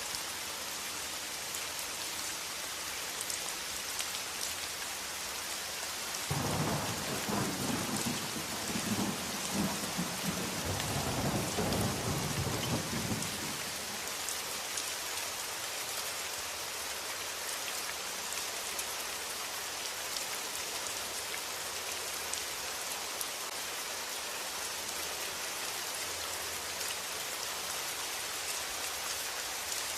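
Steady heavy rain hissing, with a roll of thunder rumbling in about six seconds in and dying away after about seven seconds.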